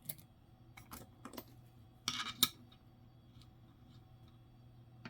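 Nickels being handled on a table: a few light clicks, then a short scrape and clatter about two seconds in, and one more click near the end, over a faint steady hum.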